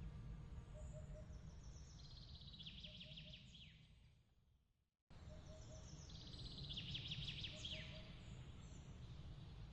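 Birds chirping in quick trills over a steady low rumbling noise bed, in a looped ambience track that fades to silence about halfway through and cuts straight back in, the same chirps repeating.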